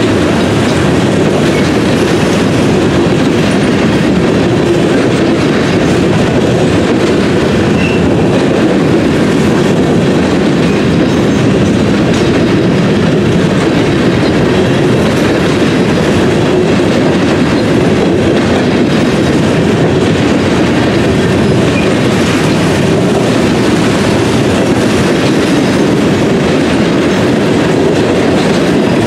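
Freight train of covered hopper cars rolling past: a steady, loud rumble and clatter of steel wheels on the rails.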